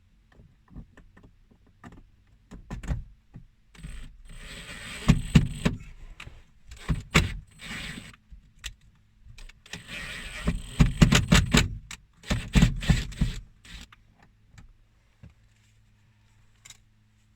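Cordless power driver running in several short bursts, with a thin high motor whine, as screws are driven into car dash trim, and clicks and rattles of the tool and fittings in between.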